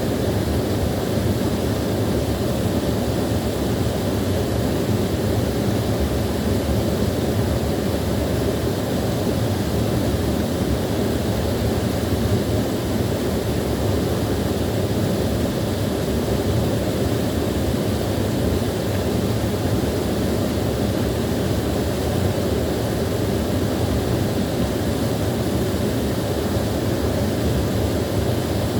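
Small waterfall: a steady, even rush of falling water, deepest and fullest in the low and middle range, unchanging throughout.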